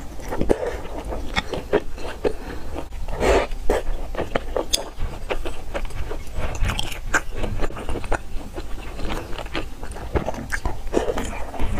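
Biting and chewing soft, soy-milk-soaked youtiao, with many short wet clicks and smacks of the mouth.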